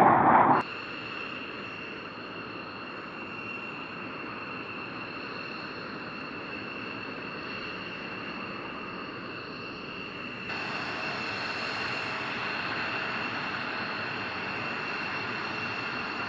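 Jet aircraft noise: a louder rush that cuts off suddenly half a second in, then a steady hiss with a steady high-pitched whine, stepping up in level about ten seconds in.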